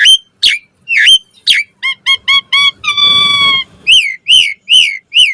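Javan pied starling (jalak suren) singing a varied song. It starts with loud swooping whistled notes about twice a second, then a quick run of short pitched notes, one long steady note about halfway through, and several arching whistles near the end.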